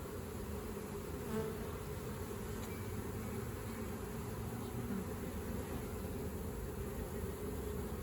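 Many honeybees buzzing around an open hive during a frame inspection, a steady hum with a brief swell about a second and a half in.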